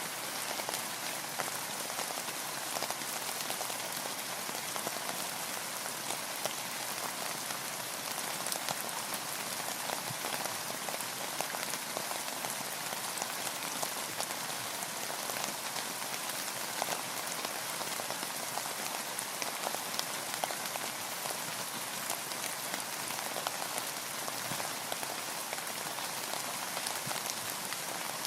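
Steady rain with many fine drop ticks, falling on a boat and on the water around it.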